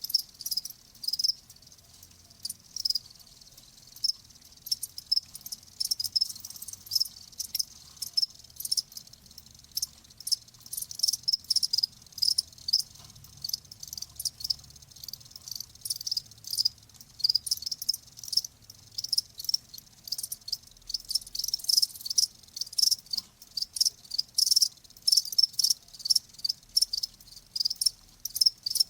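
Crickets chirping in many short, high-pitched pulses that overlap at an uneven rhythm.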